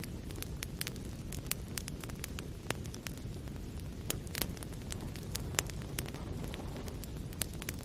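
Wood fire burning in a fireplace: a steady low rumble of flames with frequent irregular sharp crackles and pops from the burning logs, a few louder pops about halfway through.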